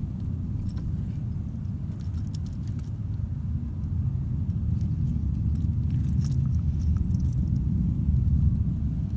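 Wind buffeting the microphone: a steady low rumble that grows somewhat louder toward the end, with a few faint clicks and rustles.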